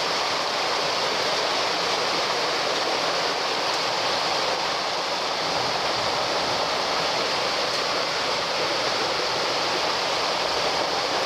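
Floodwater from a flash-flood downpour rushing down a street as a torrent: a steady, even rushing noise.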